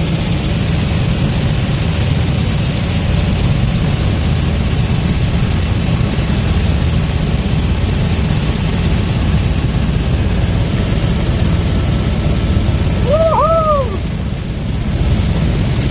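Helicopter engine and rotor noise, a steady low drone. Near the end there is a brief pitched vocal sound, after which the drone dips slightly for a moment.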